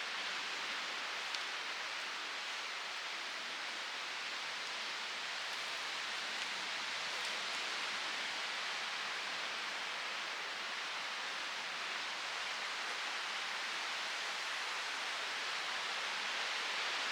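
Steady, even rush of running water, without surges, with a couple of faint ticks.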